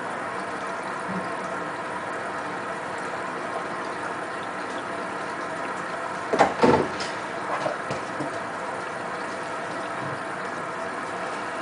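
Hotpoint Ultima WT960 washing machine running mid-cycle with water in the drum, a steady mechanical hum with water sounds. About six and a half seconds in there is a brief cluster of louder knocks, followed by a few smaller ones.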